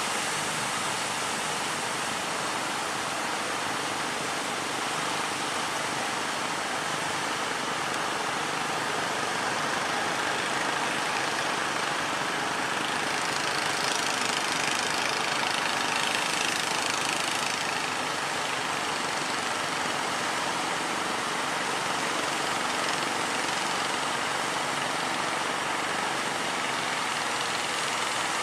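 A fishing boat's engine running steadily under a constant rush of heavy surf.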